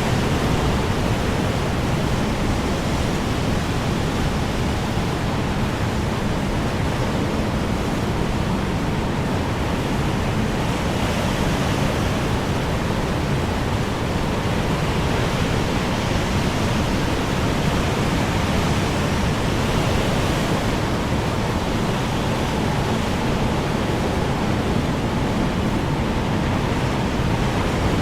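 Strong wind blowing steadily, a dense rushing noise that swells slightly now and then.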